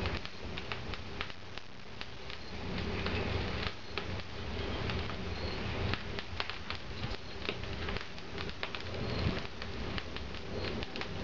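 Wood fire crackling in a barbecue fireplace: many irregular sharp pops and snaps over a steady hiss, with a low hum underneath.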